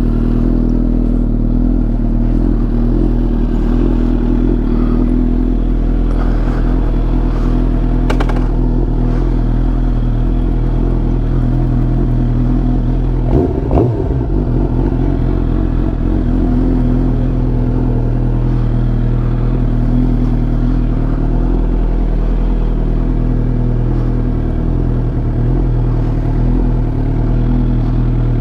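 Suzuki GSX-R 750 inline-four motorcycle engine idling steadily through a newly fitted M4 full exhaust system, with one short knock about halfway through.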